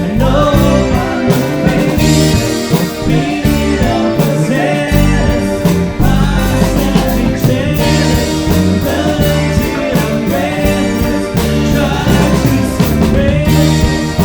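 Live rock band playing a psychedelic-rock song, with electric guitar over a stepping bass line and drums.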